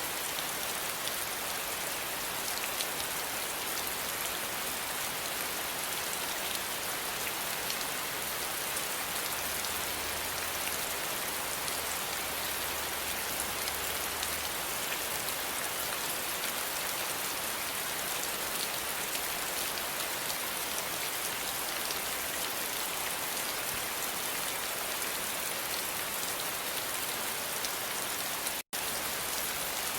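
Steady rain, an even hiss with no change, broken by a split-second cut-out of the sound near the end.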